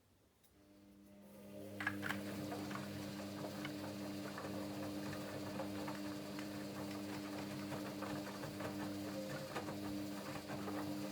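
Hoover Dynamic Next washing machine running on its Rapid 14' programme. A steady hum comes up over the first two seconds and then holds, with a scatter of light clicks and patter over it.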